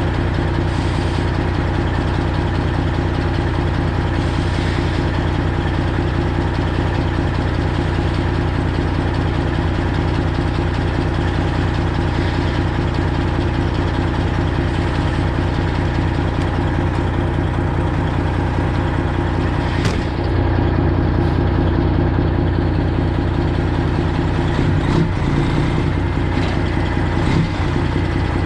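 Straight-piped Detroit Diesel 12.7 in a Freightliner Classic XL running at a steady speed, with a single click about twenty seconds in.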